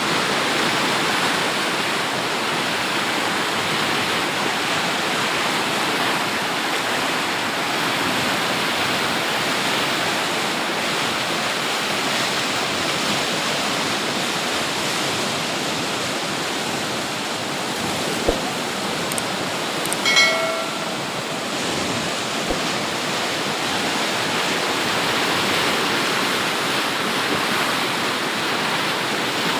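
Water rushing through a river dam's gates, a steady loud rush of falling water. About two-thirds of the way through, a click and then a brief pitched call sound over it.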